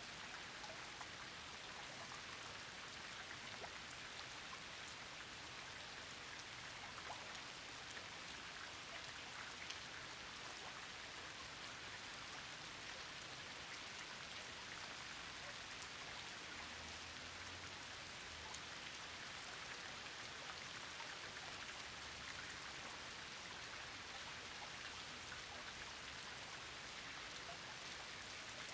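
Steady rain falling, an even patter with many small individual drop ticks through it.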